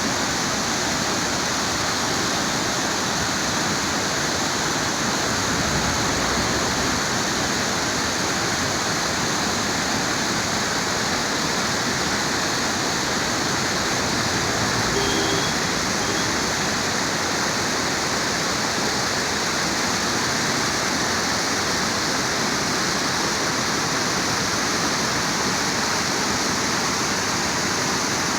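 River water rushing steadily, a loud even wash of fast-flowing water.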